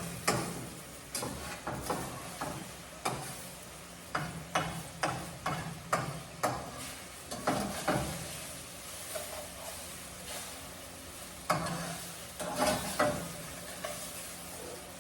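Irregular clinks, knocks and scrapes of a utensil being worked in a cooking pot, as in stirring food. The knocks come in clusters, with a busy spell about eleven to thirteen seconds in.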